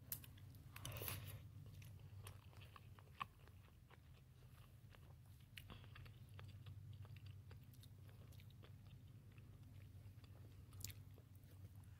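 Quiet close-up chewing of a macaron: soft crunches and wet mouth clicks, with a louder crunch about a second in and another near the end.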